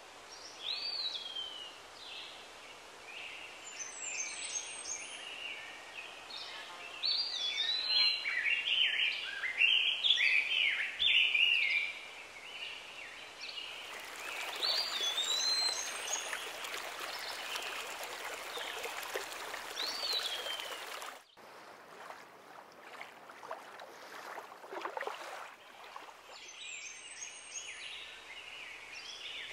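Several birds singing and chirping over a steady outdoor hiss, the song busiest in the first half. Midway a louder rushing hiss joins for several seconds and then cuts off suddenly, leaving quieter birdsong.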